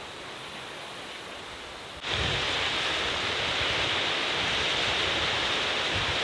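Steady rushing outdoor noise that turns abruptly louder about two seconds in, with irregular low buffeting underneath.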